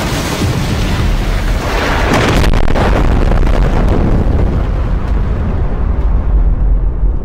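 A long explosion sound effect: a loud, deep rumble whose high hiss dies away after about two and a half seconds while the low rumble carries on.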